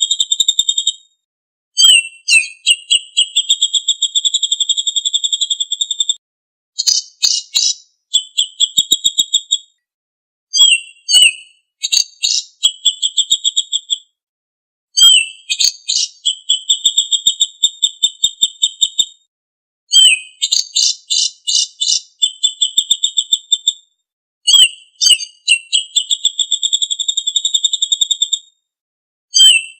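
Songbird song of the kind played as a masteran recording to teach caged birds: about eight phrases of fast, even, high trilled notes, each one to four seconds long, separated by short gaps.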